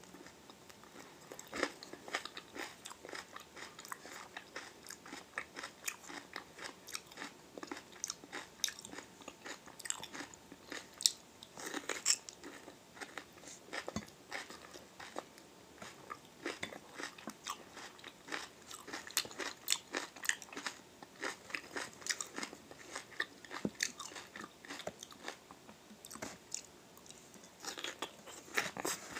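Biting and chewing grilled wild onion leek stalks, a run of irregular crisp crunches. The stalks are a bit hard to chew.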